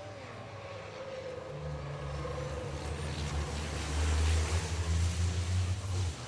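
Racing trucks' diesel engines running at speed, a deep rumble that grows louder and is loudest about four seconds in.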